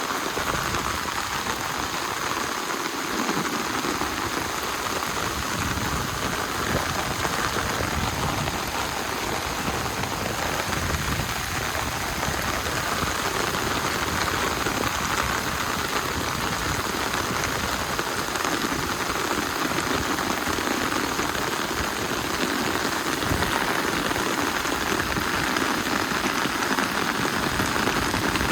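Rain falling steadily, an even hiss of drops with no break.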